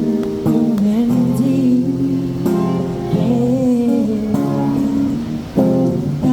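Live singer performing a song with acoustic guitar accompaniment, the voice holding and sliding between sustained notes.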